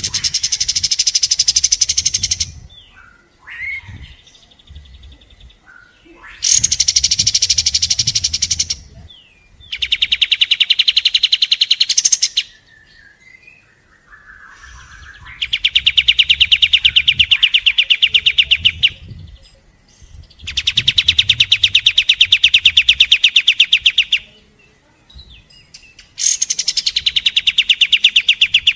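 Kapas tembak songbird singing its rapid, dense rattling trills, the 'tembakan' or 'shots': six bursts of two to three seconds each, separated by short pauses with faint, scattered chirps between them.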